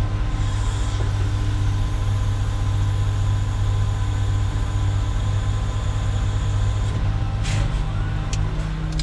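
Concrete mixer truck's diesel engine running steadily, a loud low drone, with a faint high whine that stops about seven seconds in and a few short ticks near the end.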